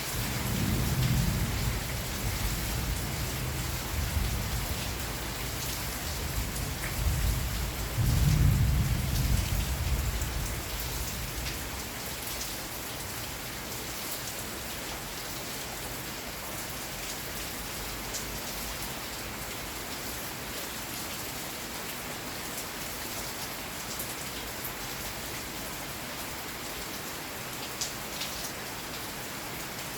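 Steady rain falling with thunder rumbling low through the first dozen seconds, swelling to its loudest about eight seconds in before fading away. The rain then carries on alone.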